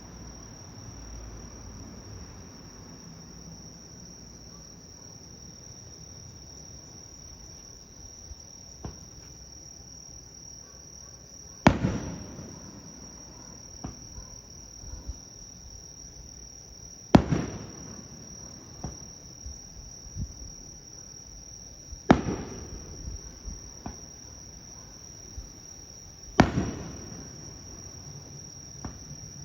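Aerial firework shells bursting: four loud booms roughly five seconds apart, each ringing away, with fainter pops in between. A steady high-pitched chirring of insects runs underneath.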